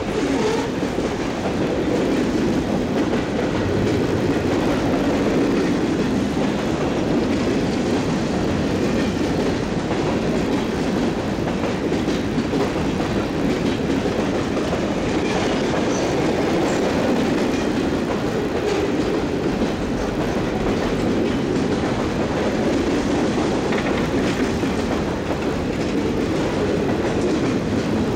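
CSX freight train's cars rolling past, a steady, unbroken sound of steel wheels running on the rails.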